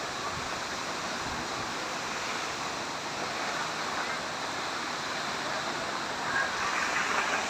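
Steady rushing roar of the Kapildhara waterfall, swelling slightly near the end.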